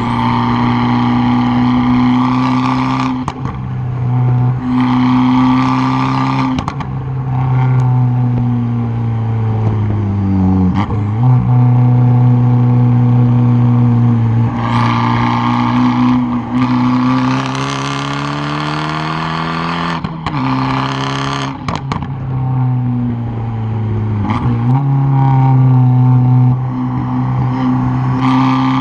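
Exhaust of a tuned 2013 Fiat 500 Abarth's turbocharged four-cylinder, heard close at the tailpipe while the car is driven hard. The steady note breaks off sharply about six times. Around ten seconds in it sinks in pitch, then climbs slowly again.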